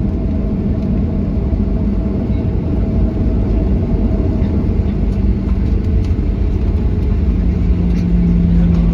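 Steady low rumble inside a Boeing 737-800's cabin as it taxis after landing: engine and rolling noise, with a low hum growing stronger near the end.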